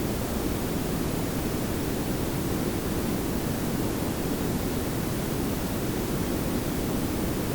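Layered pink and brown noise, a steady smooth hiss over a low rumble that never changes.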